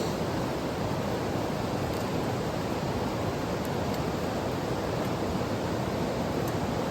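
Mountain stream rushing over rocks, a steady even flow of water, with a few faint ticks now and then.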